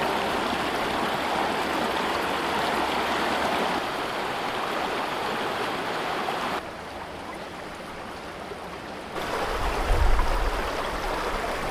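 Flowing water of a river or stream, a steady rushing hiss. It turns quieter about halfway through, then louder again near the end with a low rumble underneath.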